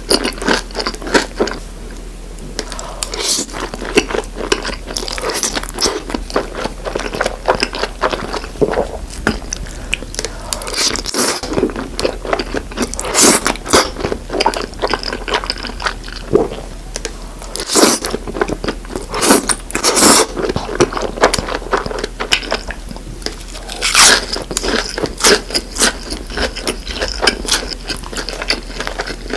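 Close-miked mukbang eating: crunchy bites and chewing, with many sharp, irregular cracks and clicks.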